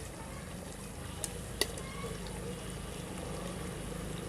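Duck curry frying in a pot as it is stirred, over a steady low rumble, with two sharp clicks about a second and a half in.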